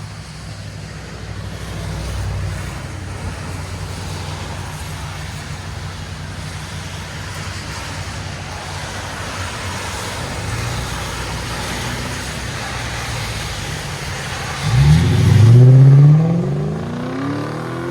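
2012 Lexus LS 460's 4.6-litre V8 with Dynomax race bullet resonators and a rear muffler delete, running steadily as the car moves, then revving hard under acceleration about fifteen seconds in. The pitch climbs steeply and is loudest there, then falls and swells again near the end.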